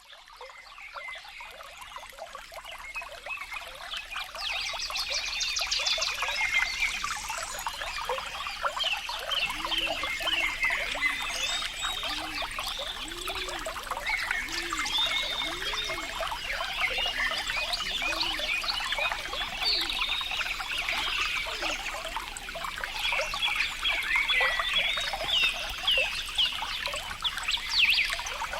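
Water trickling, with many birds chirping over it throughout and a run of low repeated calls, about one a second, from around ten to eighteen seconds in. The sound fades in at the start.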